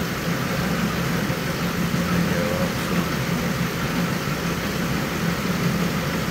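Ford Explorer engine running steadily at idle.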